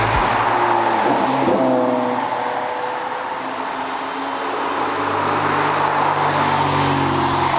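Car engines running at a car meet, one engine note gliding up about a second and a half in, then a steady low engine drone from about five seconds on.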